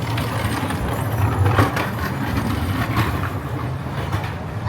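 Steady low hum of an idling vehicle engine amid city street traffic noise.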